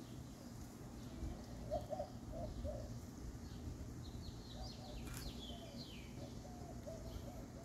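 Faint birdsong: a bird's low, wavering call repeated in short phrases, with a few higher chirps about four to five seconds in, over a low steady background rumble.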